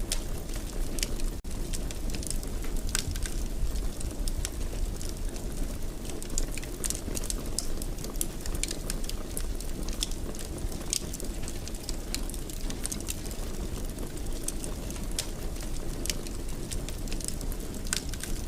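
Wood fire in a fireplace crackling, with irregular sharp pops and snaps over a steady low rumble of the flames. A brief dropout comes about a second and a half in.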